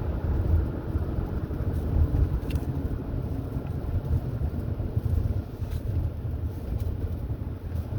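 A car driving along a highway: a steady low rumble of road and engine noise.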